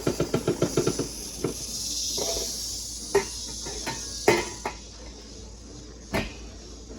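Brood X periodical cicadas in a hot, lidded frying pan: a quick rattle of clicks for about the first second, then a steady high hiss, with a few separate knocks against the pan and lid later on.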